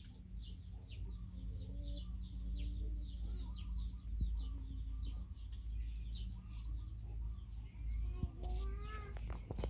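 Small birds chirping over and over, with a few lower calls near the end and a steady low rumble underneath.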